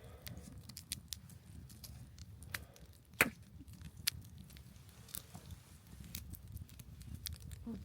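Campfire wood crackling and popping: irregular sharp snaps, the loudest about three seconds in, over a low steady rumble.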